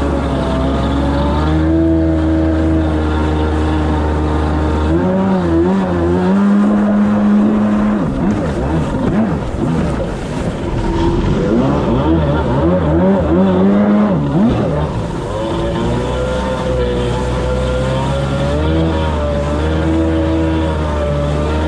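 Two-stroke stand-up jet ski engine running loud, its note rising and falling with the throttle through the middle stretch and steadier at the start and end.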